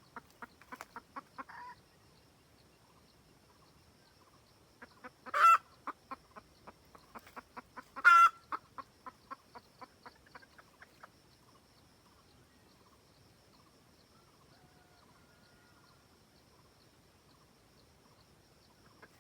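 Red junglefowl hen cackling: a run of short clucks at first, then two loud drawn-out squawks about five and eight seconds in, each followed by a string of clucks. The hen falls mostly quiet for the last eight seconds. A faint steady high whine runs underneath.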